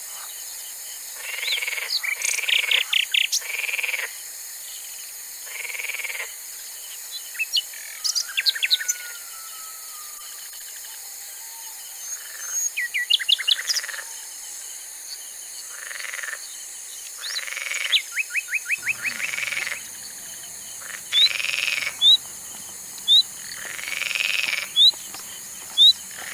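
Frogs croaking in repeated calls, some as rapid runs of pulses, mixed with short, high bird chirps that come more often near the end.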